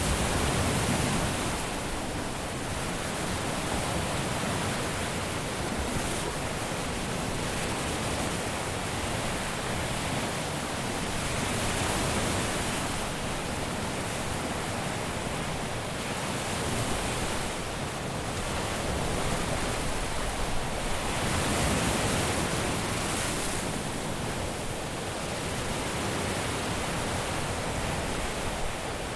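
Caribbean surf washing onto a beach: a steady rush of breaking waves that swells and eases every several seconds.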